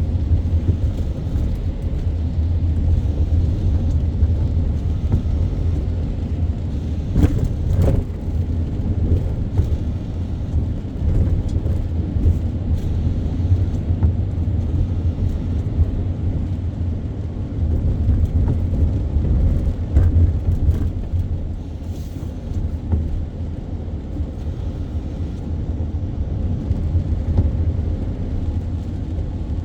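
Car on the move: a steady low rumble of engine and road noise, with scattered faint ticks and a couple of knocks about seven to eight seconds in.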